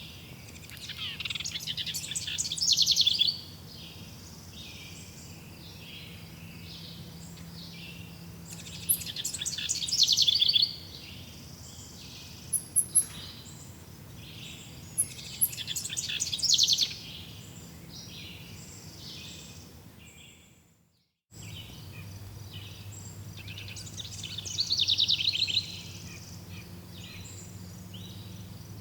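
Forest birds singing: one bird repeats a loud song of rapid notes that swells and ends abruptly, four times, with softer chirping from other birds between. The sound fades to silence and cuts back in about two-thirds through.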